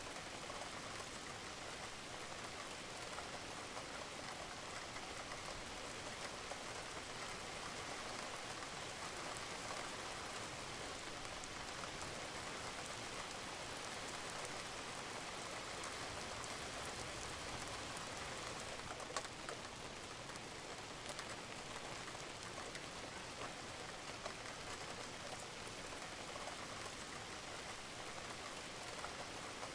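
Steady rain falling on a roof, a dense even patter with scattered individual drips and drops standing out here and there.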